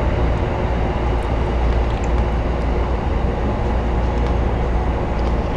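JR Tokaido Line train running, heard from inside the car: a steady rumble of wheels on rails with a few faint ticks.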